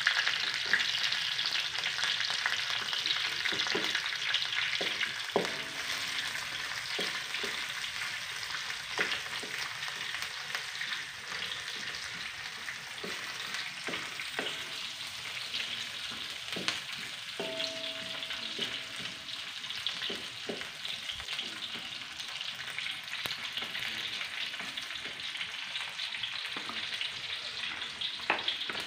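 Onions, lemongrass, ginger and garlic sizzling steadily in hot oil in a wok, stirred with a wooden spatula that scrapes and knocks against the pan now and then.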